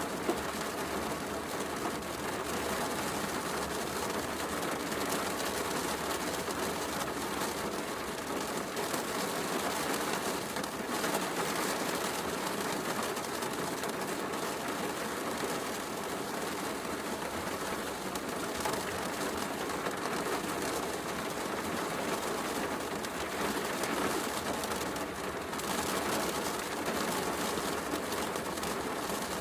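Heavy rain falling steadily, with a wood fire crackling.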